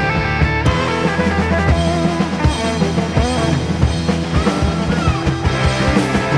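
Psychedelic rock music, instrumental: electric guitar lead with bending notes over bass and a steady drum-kit beat.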